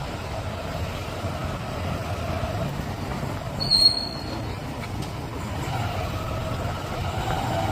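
A vehicle travelling along a street, with a steady rumble of engine and road noise. A brief high-pitched squeal comes about four seconds in.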